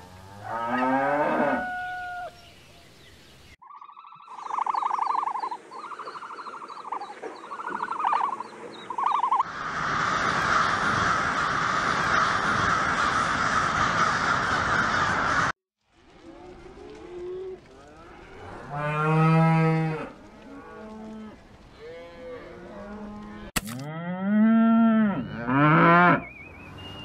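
Cattle mooing: a long moo at the start and several more long moos in the second half, the loudest near the end. In between come a run of about five short calls and some six seconds of a flock's dense, overlapping calling.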